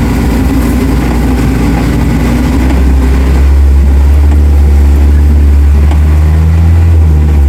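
Off-road 4x4's engine running at steady revs, with a deep drone that comes in strongly about three seconds in and holds steady.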